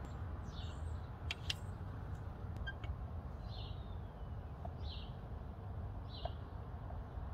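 A bird calling over and over: short, high notes that slide downward, repeated every second or so, over a steady low background rumble. A couple of sharp clicks come about a second and a half in.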